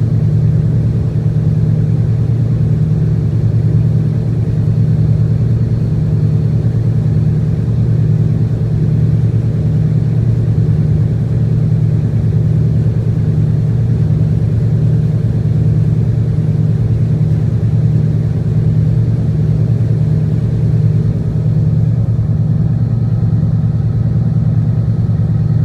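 A boat's engine running at a steady speed: a low, even drone that holds unchanged throughout.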